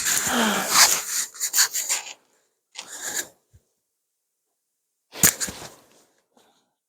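Rubbing, rustling noise in several bursts over the first two seconds and again briefly around three seconds, then a couple of sharp clicks a little after five seconds.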